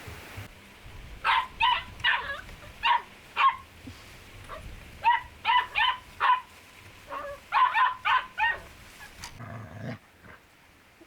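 A dog barking: about a dozen short, high-pitched barks in three quick runs.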